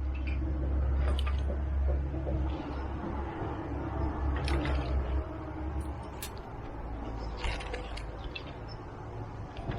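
Wind rumbling on the microphone outdoors, with scattered sharp clicks through it.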